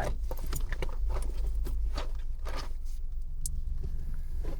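Steady low rumble with scattered small clicks and rustles of handling.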